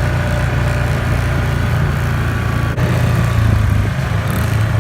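ATV engine running steadily while riding. About three seconds in there is a brief dropout, after which the engine note is a little different.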